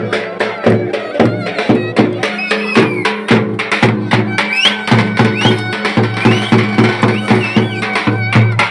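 Live Turkish folk music: a drum keeps a fast, even beat, about three strikes a second, under a steady low accompaniment and a high melody with sliding notes.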